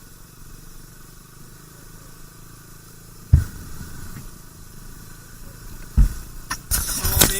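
Motorcycle engine running at low speed on a rough, rocky track, with two sharp thumps about three and six seconds in and a louder, noisy rustle near the end.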